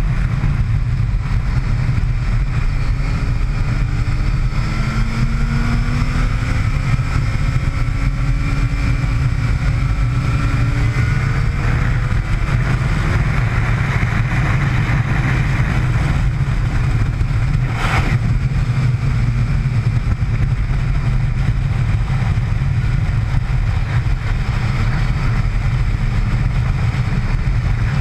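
Motorcycle engine at speed, its pitch rising and falling through gear changes, under a heavy rumble of wind on the microphone. One sharp click comes about two-thirds of the way through.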